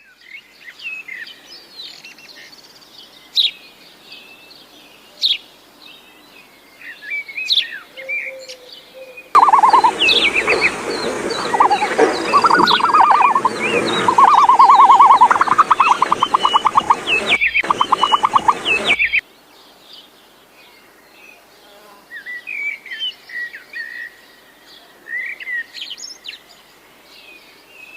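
Birds chirping and calling with short, high notes. For about ten seconds in the middle, a much louder, denser chorus takes over, with rapid trills and many overlapping calls, before it drops back to scattered chirps.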